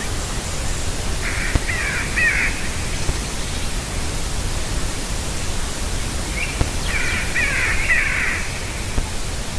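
Two distant bird calls, each a harsh, roughly one-second call, about a second in and again past the middle, over a steady hiss; the recordist takes them for eagles, perhaps far off.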